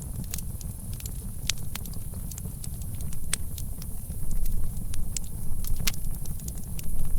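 Campfire crackling, with scattered sharp pops and snaps over a steady low rumble; it grows somewhat louder about halfway through.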